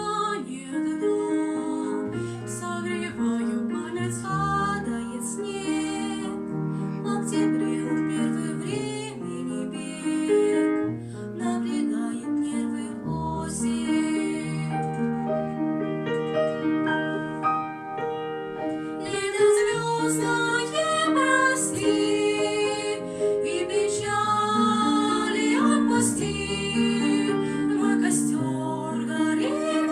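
Two young girls singing a song with grand piano accompaniment.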